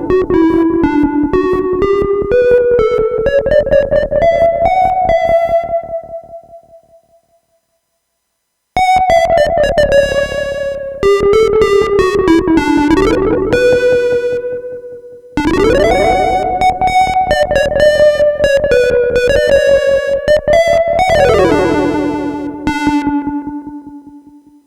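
Circuit-bent Concept Lite 'n Learn toy keyboard synthesizer played through effect pedals: buzzy pitched notes in stepped melodic phrases with pitch glides between them. The first phrase fades out, then after a short silence two more phrases follow, the last sliding down in pitch and fading out near the end.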